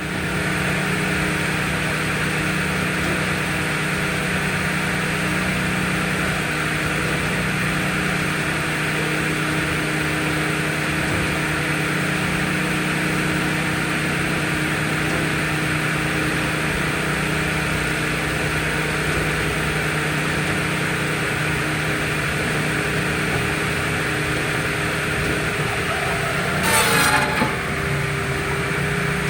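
An engine running steadily at an even speed, with a short, louder burst of noise about a second long near the end.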